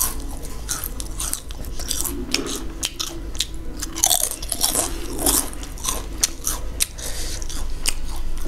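Crisp papad being bitten and chewed close to the microphone: a steady run of sharp crunches.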